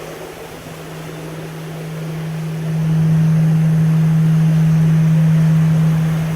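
A steady low machine hum, one unchanging pitch, growing louder about three seconds in, over a rushing hiss of wind.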